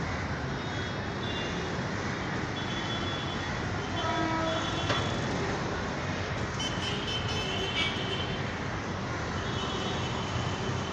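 Busy city street traffic: a steady rumble of passing vehicles with vehicle horns honking on and off, several short toots clustered in the middle.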